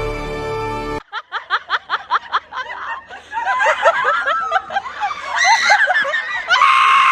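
Music cuts off about a second in. Then a quick run of short, high laughing sounds, about five a second, leads into overlapping laughter, with a loud high squeal near the end.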